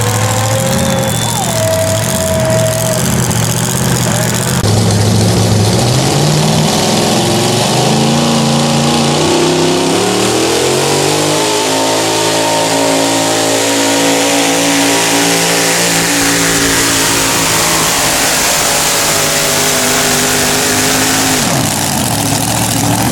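Modified pulling truck's engine running low, then revving up over a few seconds and held at high revs under load during a pull, dropping off abruptly near the end.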